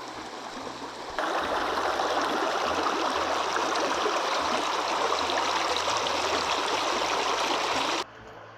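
A stream running, a steady rushing noise of water. It jumps abruptly louder about a second in and drops back just as suddenly near the end.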